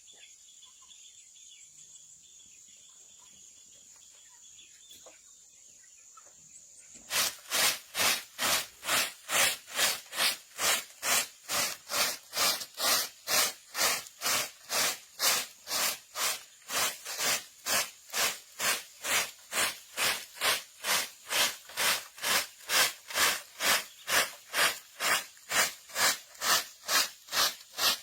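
Hand saw cutting wood in steady back-and-forth strokes, about two a second, starting about seven seconds in. Before it, a quiet, steady high insect trill.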